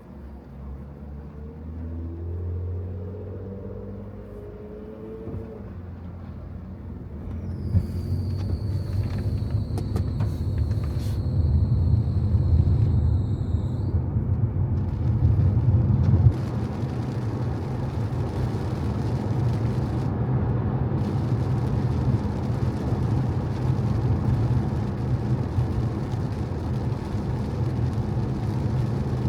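Car driving on a wet road: the engine rises in pitch as it pulls away over the first few seconds, then settles into a steady low road rumble. The hiss of tyres on the wet surface grows through the second half. A high, steady two-note tone sounds for about six seconds near the middle.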